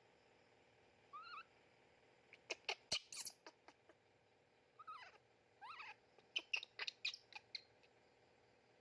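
Baby monkey squeaking: a few short high calls, each about a quarter second, with quick runs of sharp clicks between them.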